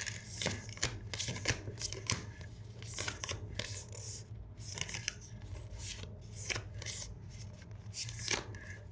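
Tarot cards being shuffled and handled by hand: an irregular run of soft flicks and clicks.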